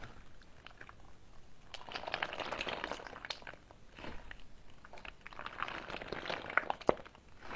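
Slime being squeezed and pressed, giving bursts of wet crackling and small pops in three runs, with one sharper click near the end.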